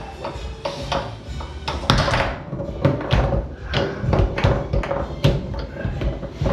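Foosball play on a Tornado foosball table: the ball cracking off the plastic men and walls and the rods knocking, in quick irregular hits with a dense flurry about two seconds in.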